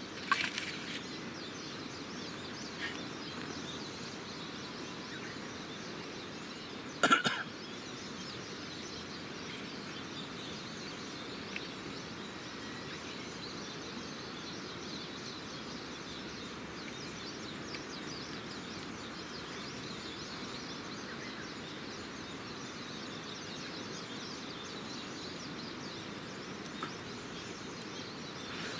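Campfire burning with a steady hiss and faint scattered crackles, and one loud sharp crack about seven seconds in.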